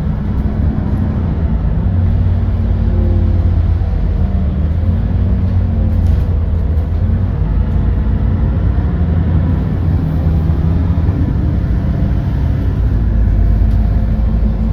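GX12P natural-gas engine of a Smart 110G city bus running under way, heard from inside the cabin; its low engine note rises and falls a few times as the bus changes speed.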